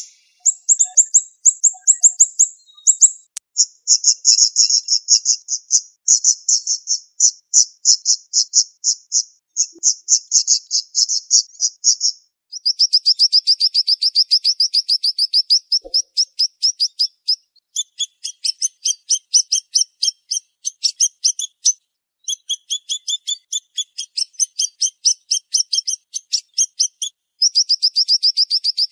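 Siri-siri songbird singing: fast, sharp trills of high thin notes in runs of one to four seconds, each run broken off by a short pause.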